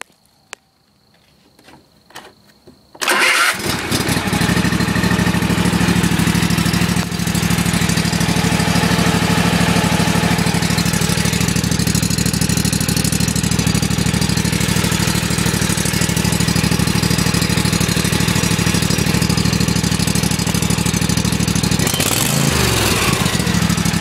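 Toro TimeCutter SS 5060 zero-turn mower engine cold-starting: a few faint clicks, then about three seconds in the starter cranks briefly and the engine fires right up. It then runs steadily, and its note changes for a moment near the end.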